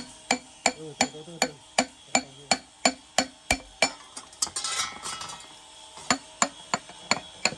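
Hammer striking metal in a steady rhythm, about three sharp, ringing blows a second. The blows pause briefly midway for a short scraping rasp, then pick up again.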